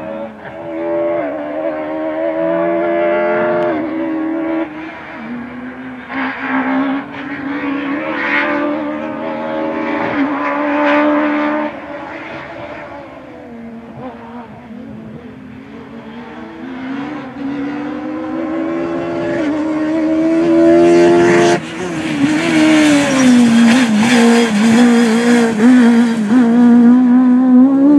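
Peugeot 306 Maxi rally car's high-revving, naturally aspirated four-cylinder engine being driven hard. The revs climb and drop sharply through repeated gear changes as the car passes. It is fainter in the middle and loudest near the end as the car comes close under full throttle.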